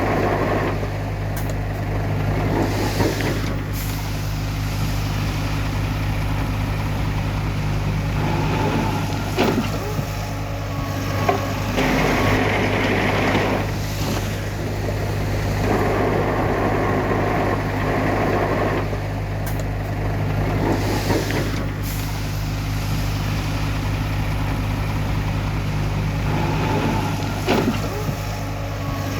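Heavy diesel earthmoving machinery running steadily under load, with a deep engine drone throughout. Several sharp clanks and stretches of hissing, rushing noise come and go over it.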